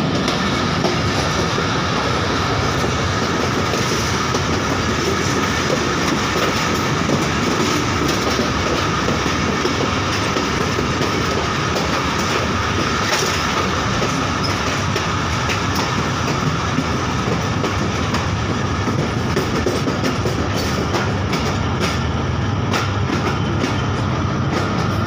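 Train running through a rail yard, heard from on board: a steady loud rumble of wheels on rail, with clacks over rail joints and points that come more often in the later seconds.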